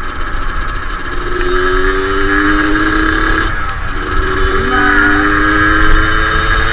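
Suzuki Satria two-stroke motorcycle engine pulling under way, its pitch climbing as it accelerates. It eases off briefly about halfway through, then picks up and climbs again.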